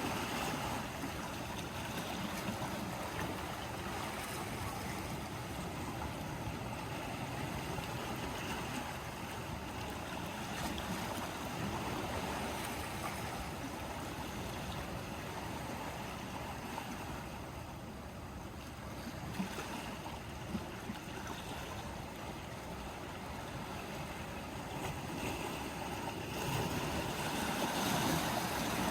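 Sea waves washing against a rocky shore in a steady wash, easing a little around the middle and swelling again near the end, with two faint knocks a little after the middle.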